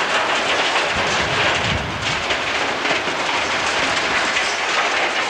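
A 600 mm narrow-gauge industrial train of hopper wagons rolling past behind an electric locomotive: a steady noise of wheels on rail with a few irregular clacks.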